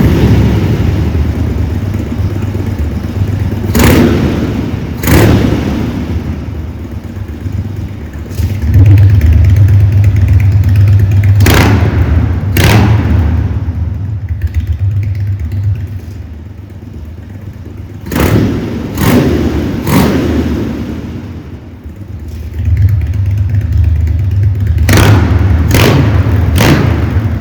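Harley-Davidson Dyna Street Bob's 1690 cc V-twin running through a Jekyll & Hyde variable exhaust. It rumbles at a low idle and is revved in short, sharp throttle blips, mostly two or three close together, every several seconds.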